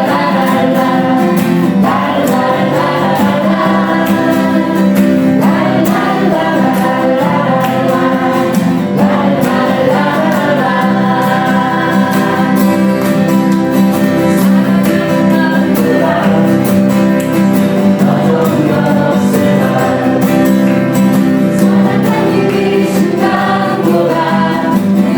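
A song sung by several voices together over instrumental accompaniment, without a break.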